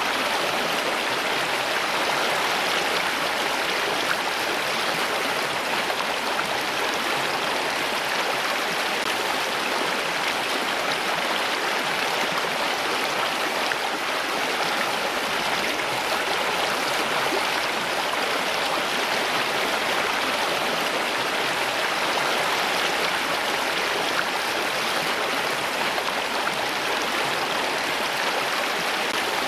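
Running water, a stream flowing, in an even, unbroken rush.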